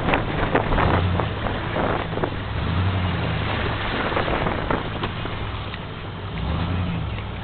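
A vehicle's engine running at low revs, swelling briefly a few times, under a steady rushing noise of wind and water.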